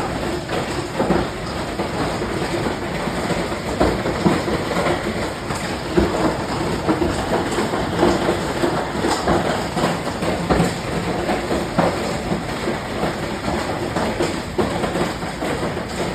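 Steady roar of storm wind, swelling and easing, with a few sharp knocks scattered through it.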